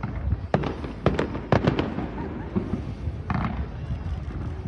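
Fireworks going off: an irregular run of sharp bangs and crackles, the loudest about a second and a half in.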